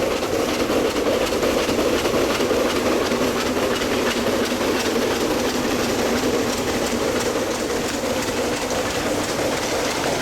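A narrow-gauge steam-hauled coal train rolling by, its wheels running over the rail with a steady rumble and faint clicking.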